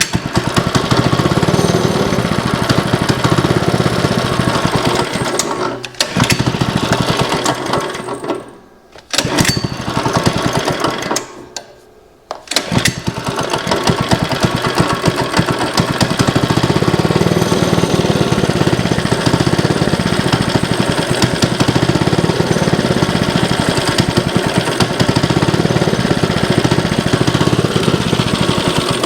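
Small go-kart engine running after a carburettor clean, dropping away sharply three times in the first half as if about to die and picking back up, then running steadily. The owner takes the old fuel in it to be probably half the problem.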